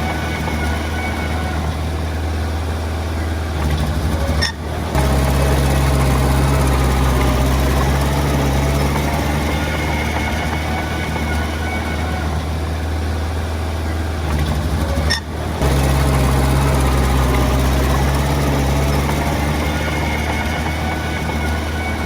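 Komatsu D20 bulldozer's diesel engine running steadily at working load, with two brief dips about four and a half and fifteen seconds in, each followed by the engine coming back louder.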